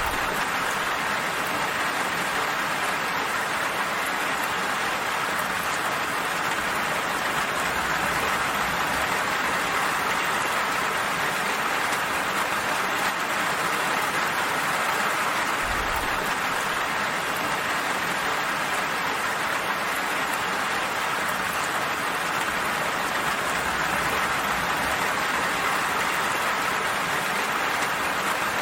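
Steady, even rain falling, a dense patter with no distinct drops standing out. A brief low rumble about 16 seconds in.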